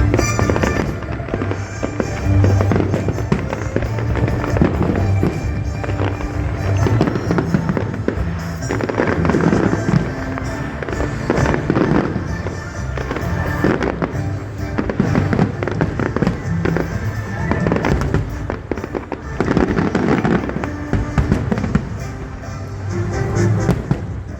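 Fireworks bursting and crackling in repeated volleys, with music playing throughout.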